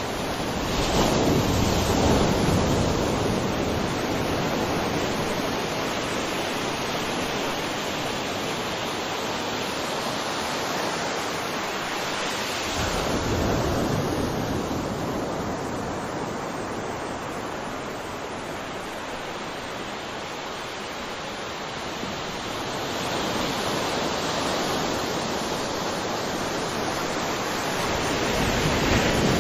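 Ocean surf: a continuous rush of waves that swells as a wave breaks about a second in, again near the middle, and twice toward the end.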